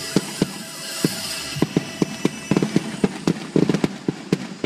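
Aerial fireworks going off, heard from inside a car: a rapid run of sharp pops and bangs that comes thickest past the middle.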